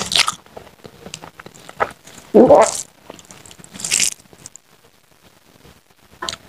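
Close-up eating sounds of a man chewing rice and curry eaten by hand: wet mouth smacks and small clicks, with louder mouth noises about two and a half and four seconds in.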